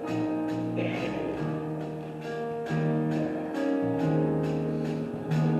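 Gospel band playing an instrumental passage: sustained chords over a moving bass line with a steady beat, leading into a congregational song.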